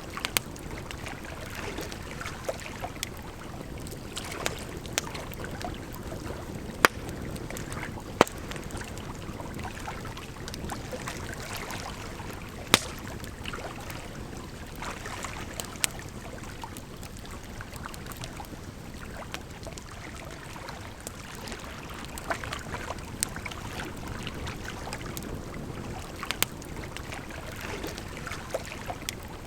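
Wood campfire crackling, with sharp irregular pops, a few of them much louder, over a steady rush of water.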